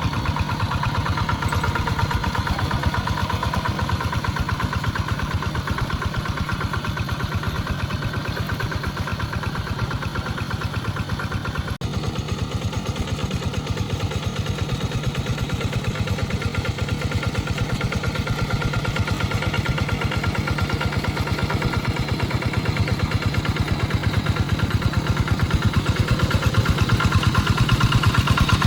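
Tractor engine running steadily with a fast, even beat while working a muddy rice paddy, with a momentary break about twelve seconds in.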